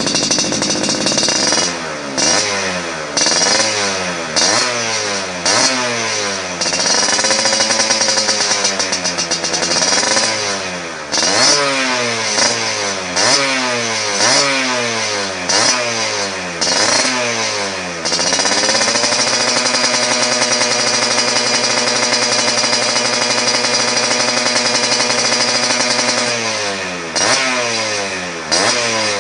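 Yamaha F1ZR two-stroke single revving through an aftermarket galvanised racing exhaust with an aluminium silencer. It starts with a string of quick throttle blips, then the revs are held high for several seconds before dropping back near the end.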